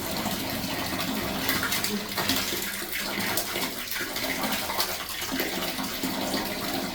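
Water running steadily and hard from a tap fed by a household booster pump, with a faint steady hum under the rush of water.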